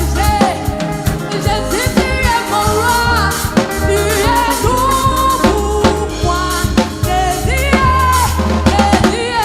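Live gospel praise music: a lead voice singing over a band with a driving drum kit (snare and bass drum) and bass.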